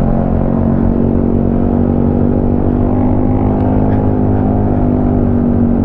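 Yamaha Smash underbone motorcycle's single-cylinder four-stroke engine running under way at steady revs, holding an even note.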